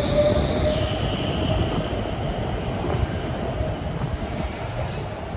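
Stockholm Metro train running with a low rumble and a high steady whine that steps down in pitch about a second in; the sound slowly fades toward the end.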